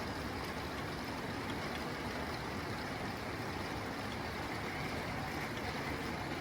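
Steady rain drumming on a tin roof: an even, unbroken hiss and patter with no single drops standing out.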